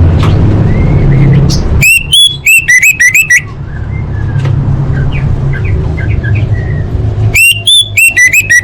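Orange-headed thrush singing: two bursts of loud, rapid, sharp whistled notes, each about a second and a half long, around two seconds in and again near the end, with softer scattered chirps between them. A steady low hum runs underneath.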